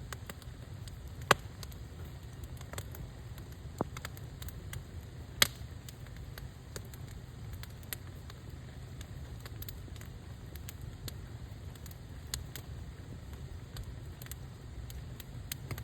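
Wood campfire crackling, with scattered sharp pops over a steady low rumble; two pops, about a second in and about five seconds in, are much louder than the rest.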